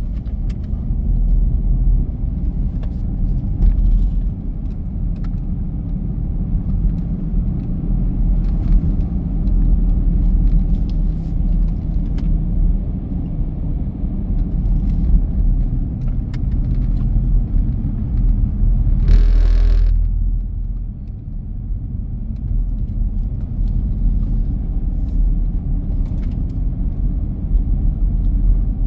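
Steady low vehicle rumble, as of a car driving, with faint scattered clicks and a brief louder hiss about nineteen seconds in.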